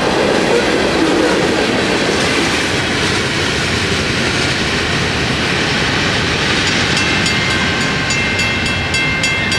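Freight train cars rolling by with steady wheel-on-rail noise, easing a little as the tail of the train moves off. Near the end a fast, repeated high ringing starts up.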